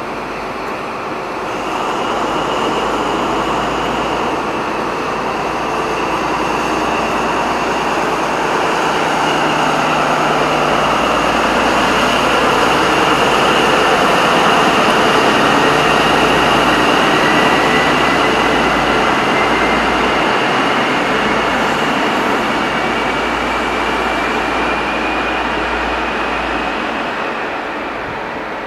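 Class 43 HST diesel power car pulling away under power: engine running with a steady high whine, swelling louder as it passes and easing off near the end. A second whine climbs slowly in pitch through the latter half.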